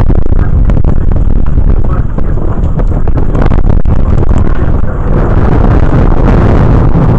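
Thunder rumbling on and on in a storm, loud enough to overload the action camera's microphone into a distorted, steady roar.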